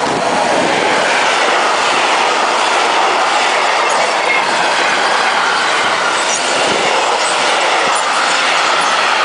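Freight train of covered sliding-wall goods wagons rolling past at close range: a steady, loud noise of wheels running on the rails.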